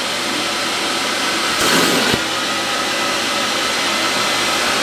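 Pro-grade carpet cleaner running steadily, its vacuum motor sucking the cleaning solution and dirt back out of a seat's upholstery. About two seconds in the suction noise briefly changes, ending in a single knock.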